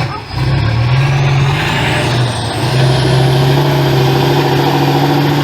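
Off-road trial truck's diesel engine running hard under load. Its note is steady and loud after a short dip at the start, with a thin whistle rising in pitch over the first few seconds.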